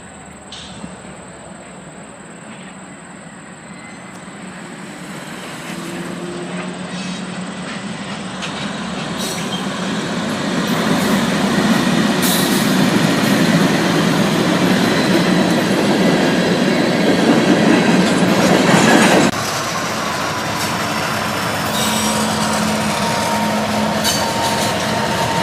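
Freight train rolling past on the rails, its noise building over the first ten seconds. It drops suddenly about three quarters of the way through, then runs on more quietly with a thin wheel squeal near the end.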